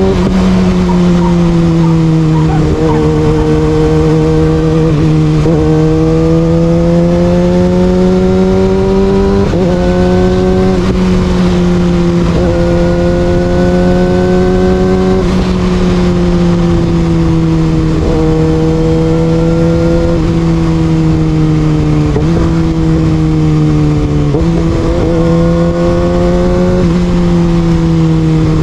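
Kawasaki Ninja ZX-6R inline-four engine with an Austin Racing exhaust, running under way at steady mid revs. The pitch rises and sags slowly with the throttle, with several abrupt changes in pitch.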